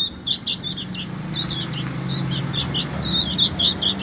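Fledgling sooty-headed bulbuls cheeping rapidly, short high chirps about four or five a second, the begging calls of young birds asking to be fed. A low steady hum joins underneath after about a second.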